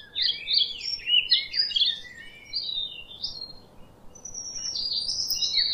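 Songbird singing: rapid high chirping and warbling notes, one run over the first three seconds and another from about four seconds in.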